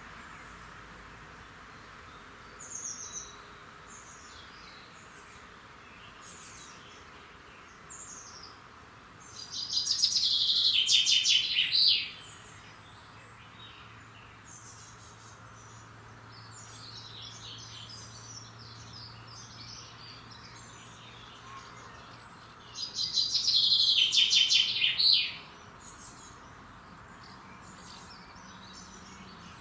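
Several small songbirds singing in a morning chorus, with short high chirps scattered throughout. Twice, about a third of the way in and again near the end, one bird close by gives a loud rapid trilling song lasting a couple of seconds.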